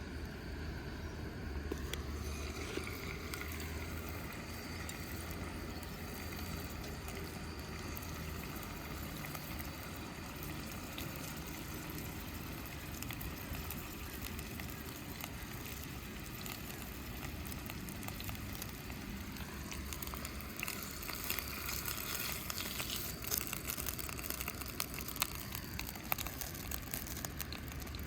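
Campfire cooking: steady low rumble and hiss with fire crackling and food sizzling, the crackles growing thicker in the last third.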